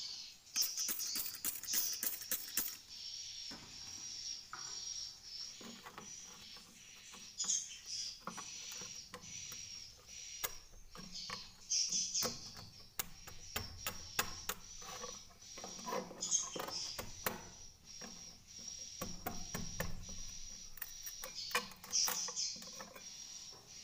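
Swiftlets twittering steadily at a high pitch inside a swiftlet house, with many sharp clicks and short scraping noises scattered throughout.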